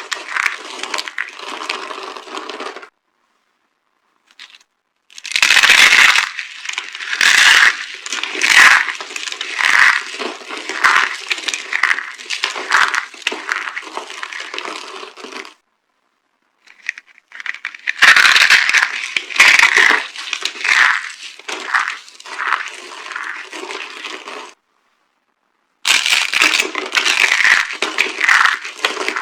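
Dry soap being crushed, crunching and crackling with many sharp snaps in long stretches, broken by three sudden dead-silent gaps.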